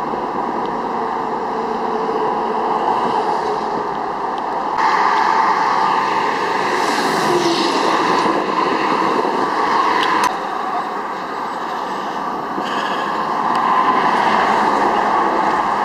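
Highway traffic passing in a continuous rush of tyre and engine noise, swelling louder twice as vehicles go by.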